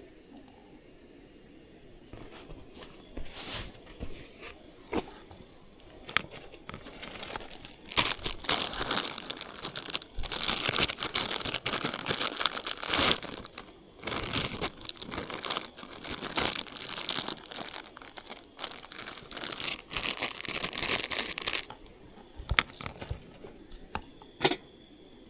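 Crinkly material crumpled and rustled by hand. A few scattered handling noises come first, then a long stretch of heavy, irregular crinkling from about a third of the way in that stops abruptly, followed by a few clicks.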